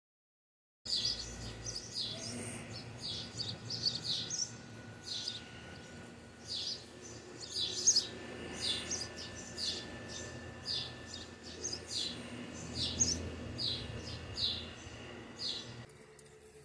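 Small birds chirping: short, high, falling chirps, several a second and irregular, over a faint low hum. They begin about a second in and stop abruptly near the end.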